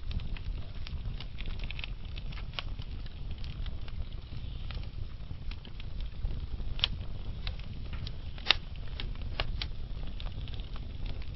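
Log fire burning slowly in a fireplace: a steady low rumble of the flames with scattered wood crackles and pops, two of them louder about seven and eight and a half seconds in.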